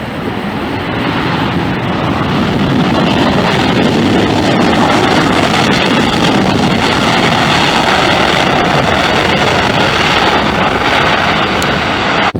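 Jet airliner engines roaring as a plane passes close by. The sound builds over the first couple of seconds, then holds loud and steady.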